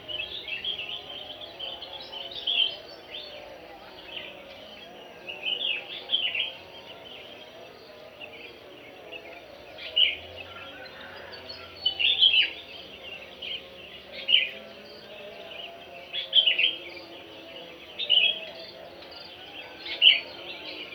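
Birds chirping in short, high phrases that recur every second or two, over a steady fainter background.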